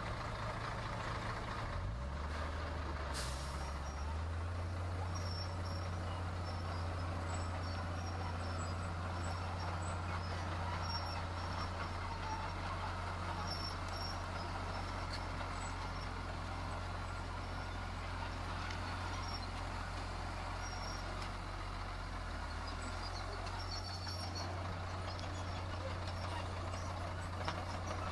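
Heavy diesel construction machinery running steadily, a low engine drone that steps in pitch a few times. There is a short hiss about three seconds in.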